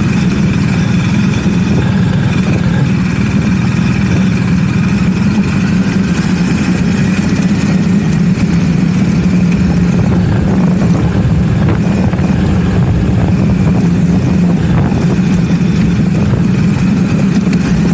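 BMW R 1250 GS's boxer twin engine running at a steady pitch, with no change in throttle.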